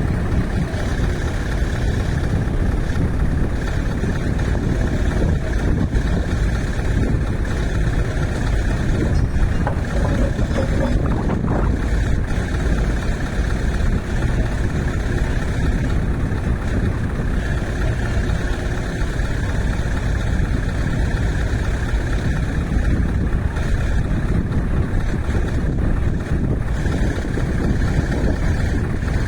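Heavy truck's diesel engine running steadily, a low, even sound with no change in pitch.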